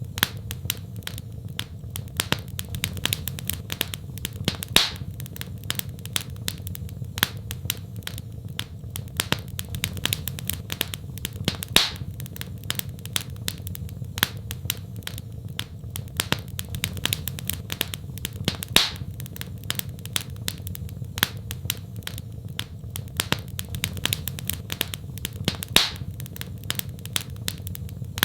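Wood fire crackling: a dense run of small snaps and pops over a steady low rumble of flame, with a louder pop about every seven seconds.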